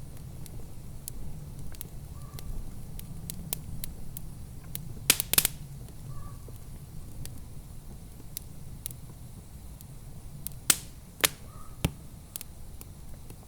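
Wood fire in a fireplace crackling: scattered small clicks over a steady low rumble, with a quick cluster of loud sharp pops about a third of the way in and three more spaced pops later on.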